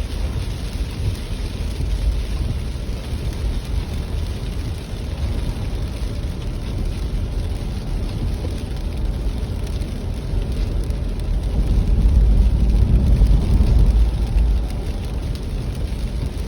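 Steady heavy rain with a deep low rumble underneath. The rumble swells louder for about two seconds past the middle.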